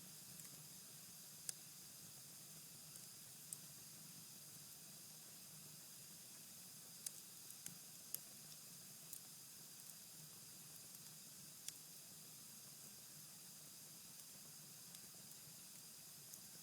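Cherry-wood fire burning low to embers in a fireplace: a soft steady hiss with a handful of sharp, irregularly spaced crackles and pops.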